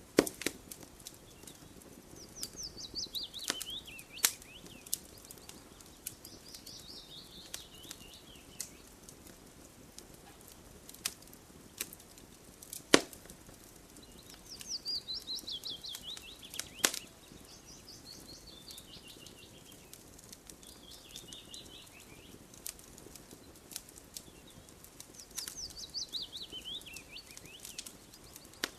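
Campfire wood crackling with scattered sharp pops, the loudest near the middle. A songbird repeats a falling, trilled phrase every few seconds.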